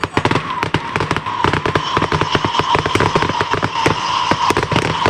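Fireworks going off in a dense, rapid crackle of sharp pops, many per second, with a steady high tone running underneath.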